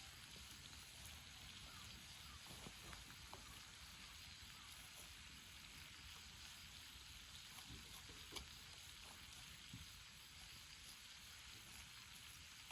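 Near silence: a faint steady hiss of outdoor background, with a few light clicks.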